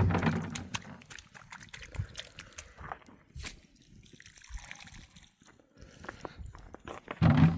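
Liquid trickling and dripping, with scattered small clicks and two louder low bursts, one at the start and one near the end.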